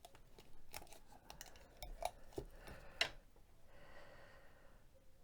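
Faint handling of tape: scattered sharp clicks and short crackly rustles of tape being pulled and torn, with a softer rustle about four seconds in.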